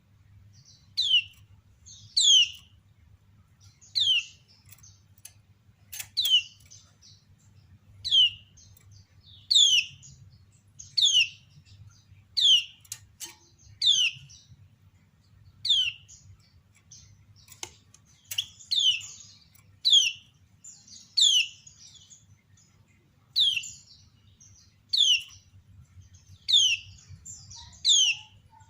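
Female kecial kuning, a white-eye, giving its ciak call: short high chirps that drop sharply in pitch, repeated about every one to one and a half seconds. It is the female call that keepers play to set male kecial singing. A few faint clicks sound among the calls.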